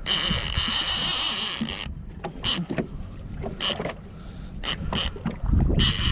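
Fishing reel drag giving out line: a steady high whir for about two seconds, then several short zings, over low wind and boat noise.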